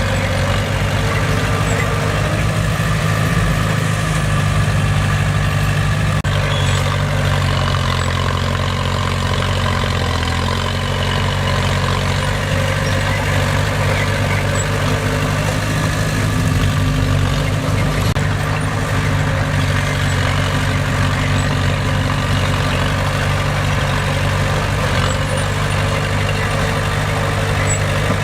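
Heavy earthmoving machine's diesel engine running steadily at an even speed, with no sharp knocks or changes in pitch.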